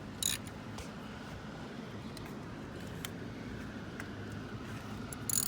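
Two sharp clicks of hand tools and engine parts being handled during spark plug work, about a quarter second in and near the end, with a few faint ticks between them, over a steady low hum.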